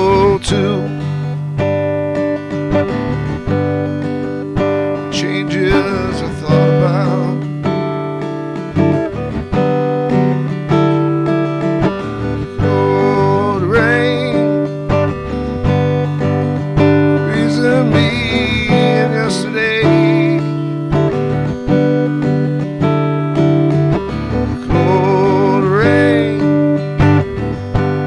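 Acoustic guitar strummed and picked in an instrumental passage of a song, with a wavering melody line coming in several times over the chords.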